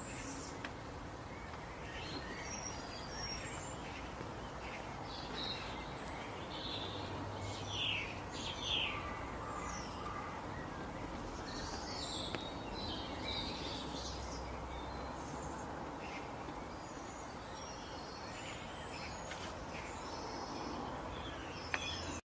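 Several birds chirping and calling, a mix of short chirps and quick gliding whistles, over a steady background hiss of forest ambience.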